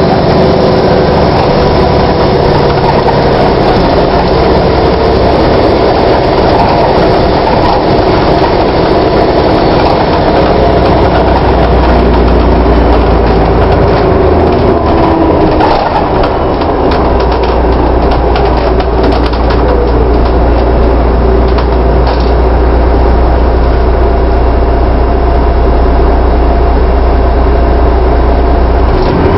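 VDL DB250 double-decker bus running, which the uploader finds stranger-sounding than usual for its type. A whine falls in pitch over the first several seconds. From about ten seconds in a deep steady drone takes over, with a run of rattles in the middle.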